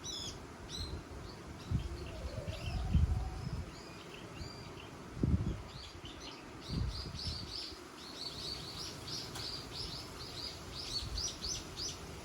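Small songbirds chirping, with a quick run of repeated high chirps through the second half. Wind gusts buffet the microphone in low rumbles several times in the first half.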